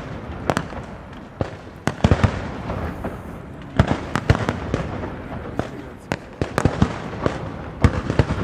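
Castillo aerial fireworks display: many sharp bangs of bursting shells, fired at an irregular, rapid pace over a continuous rumble and hiss, with a brief lull about three seconds in.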